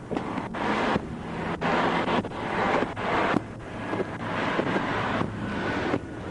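Wind buffeting an outdoor microphone, a rushing noise that swells and fades about once a second, over a faint steady low vehicle hum.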